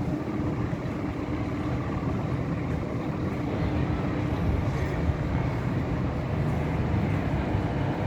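Scania coach's diesel engine running steadily, with a constant low hum and rumble.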